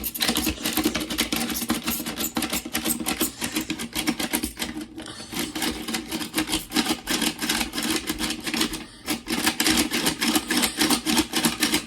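Rapid, continuous plastic clicking and clattering of Akedo battle-toy figures fighting, with a steady low hum underneath. The clatter briefly eases about five seconds in and again about nine seconds in.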